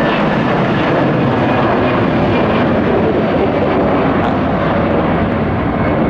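A departing jet airliner's engines at takeoff thrust, a loud, steady rush of noise.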